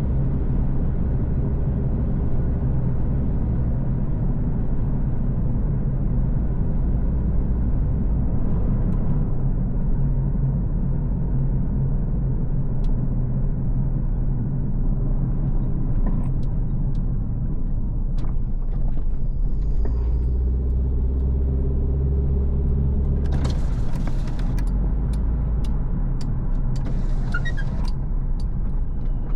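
A car driving along, with a steady low engine and road rumble. Two brief hissing swells come near the end, and a few scattered clicks in the second half.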